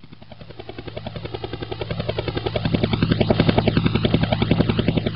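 PicoZ MX-1 micro RC helicopter flying: a small electric motor hum with a fast, even rotor chop, growing louder toward the middle and fading near the end.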